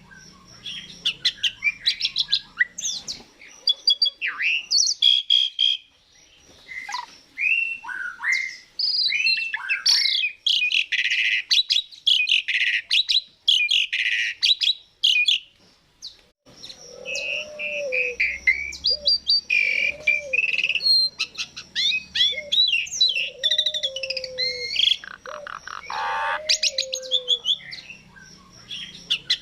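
Asian pied starling (jalak suren) singing: a varied run of whistles, rising and falling notes and rapid clicking chatter, broken by a couple of short pauses.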